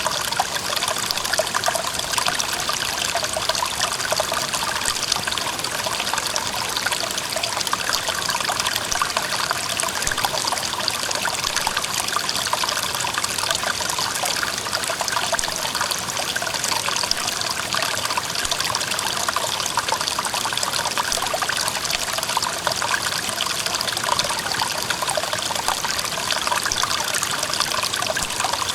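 Clear mountain stream flowing steadily, its water trickling and rushing without a break.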